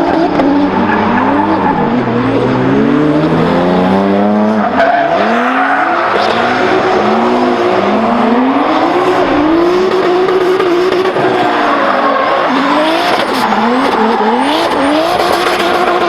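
Turbocharged Toyota 2JZ-GTE inline-six in a drift car, revving hard and dropping back again and again through the laps, over the noise of tires squealing and skidding.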